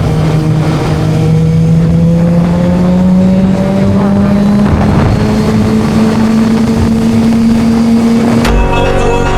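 Motorcycle engine running at steady road speed, its pitch creeping slowly upward and stepping up about halfway through. Music cuts in near the end.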